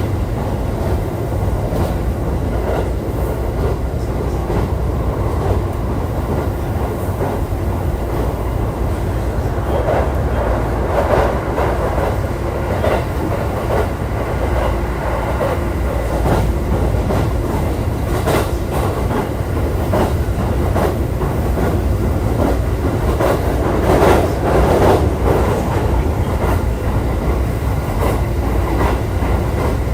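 JR East E531 series electric train running at speed, heard from inside a car: a steady low rumble of wheels on rail, with frequent sharp clicks over rail joints, growing louder twice, around ten seconds in and again around twenty-four seconds.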